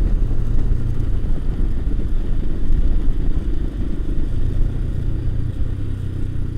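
Motorcycle engine running under way, a steady low engine note with rushing noise over it, the engine tone becoming more prominent about four and a half seconds in.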